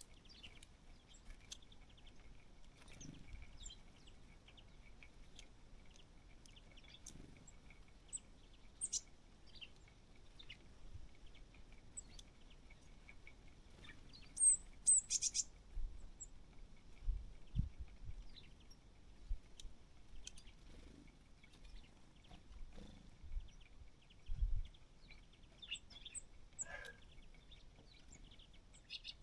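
Small birds chirping at a feeder: short scattered high calls, with a few brief low thumps in the second half.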